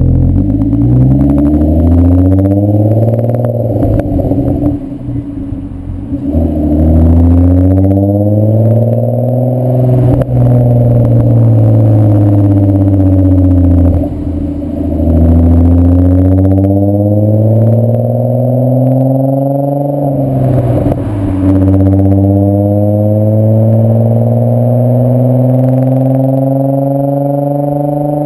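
VW mk4 Bora/Jetta's 2.8-litre VR6 24-valve engine heard through a Milltek non-resonated exhaust, accelerating through the gears. The engine note rises steadily in each pull and drops back at each upshift, several times over.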